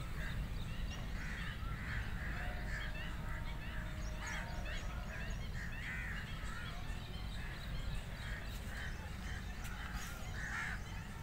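Several birds calling over and over, with short chirps among the calls, over a low steady rumble.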